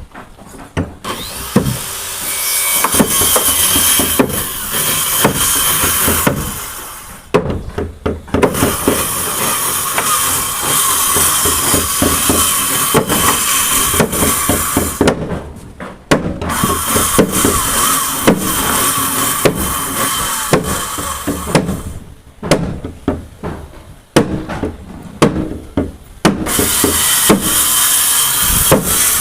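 Electric power tool working wooden boards, running in spells of several seconds with short pauses between them.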